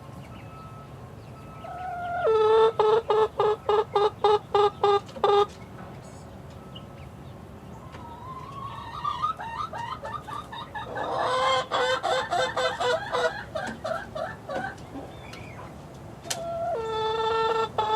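Chickens calling: a loud run of rapid, evenly repeated clucks a couple of seconds in, a busier jumble of overlapping calls in the middle, and another loud repeated run near the end.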